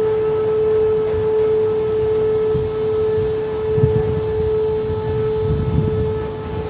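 Container freight train rolling slowly past, its wheels rumbling low and unevenly. Over the rumble a loud, steady whine holds one unchanging pitch. The rumble swells about four seconds in and again shortly after.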